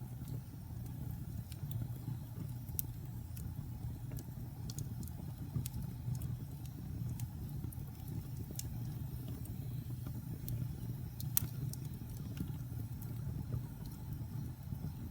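Fire burning in a fireplace: a steady low rumble of flames with scattered sharp crackles and pops, the loudest pop about eleven seconds in.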